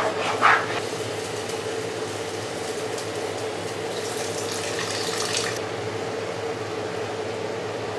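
A steady kitchen appliance hum, with a few seconds of hissing, splashing noise a little before the middle that cuts off suddenly.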